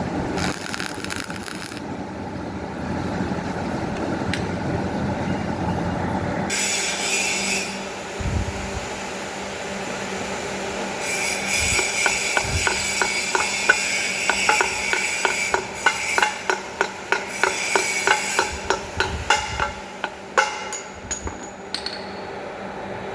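Hand-tool work on metal engine parts: rubbing and scraping, then a long run of quick, even strokes, about three or four a second, that stops shortly before the end.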